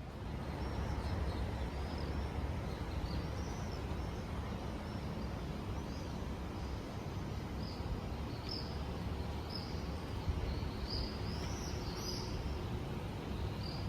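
Small birds chirping again and again, thickest past the middle, over a steady low rumble of city street ambience.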